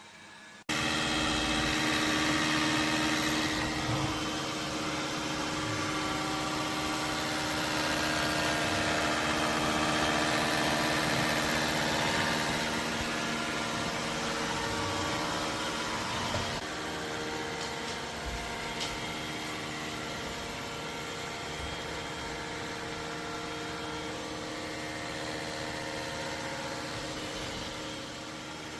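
Dreame D20 Pro Plus suction fan motor switching on abruptly about a second in and running steadily with a loud whining hum.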